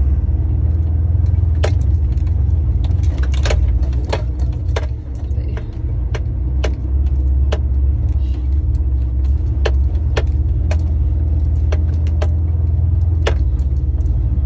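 Truck's diesel engine running in a low, steady rumble heard from inside the cab, with irregular sharp clicks and rattles from loose things in the cab as it drives slowly.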